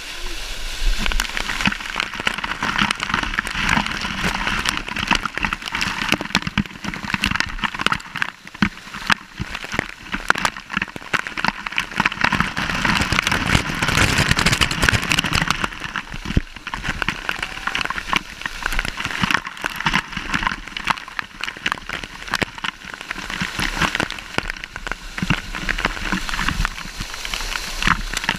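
Waterfall water falling and splashing onto rock and pool, a dense crackling spatter that swells and eases.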